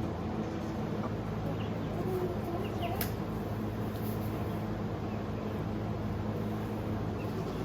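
Steady low mechanical hum, with a few faint high chirps and a single sharp click about three seconds in.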